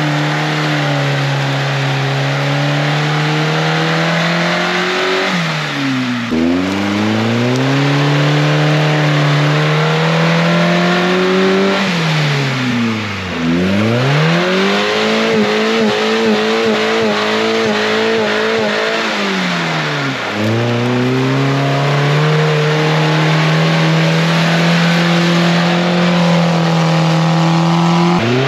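Suzuki Samurai's engine revving hard as it drives through deep mud, its revs dropping sharply and climbing again three times. Midway the revs waver quickly up and down for a few seconds.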